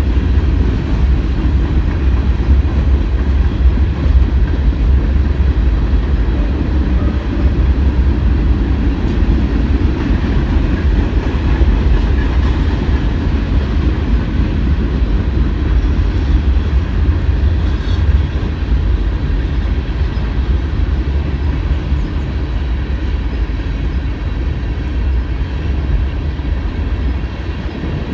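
CSX freight train of loaded garbage cars rolling slowly past, a steady low rumble of steel wheels on the rails.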